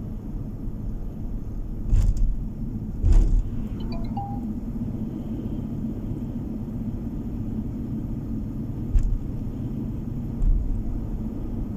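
Steady low road and engine rumble of a car driving, heard from inside the car, broken by four short thumps about two, three, nine and ten and a half seconds in.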